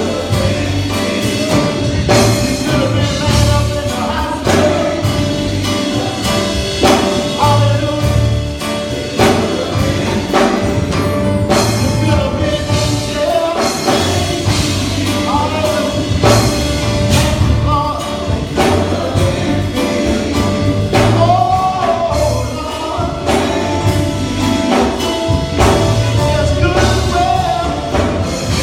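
Live gospel music with a full band: drum kit and bass keeping a steady beat, with singing over it.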